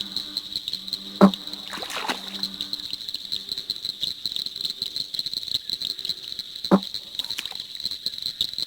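Frogs calling: a steady, high-pitched pulsing chorus throughout, with two short, loud, low single calls, one about a second in and one near the end.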